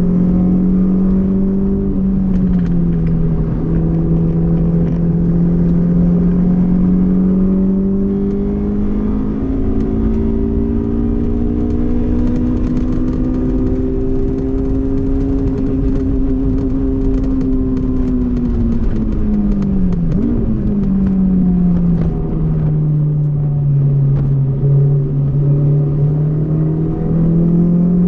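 Honda S2000 inline-four engine under load on track, its pitch climbing slowly as the car pulls through a gear. About two-thirds through, the revs drop sharply with a quick blip, typical of braking and a downshift, then climb again near the end.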